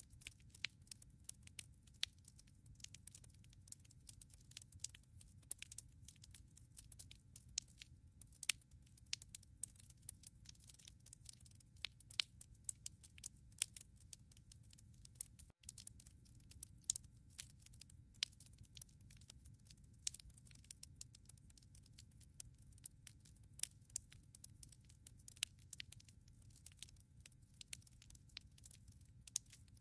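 Wood burning in a fireplace: irregular sharp crackles and pops, several a second, over a soft low rumble of the fire, with a momentary dropout about halfway through.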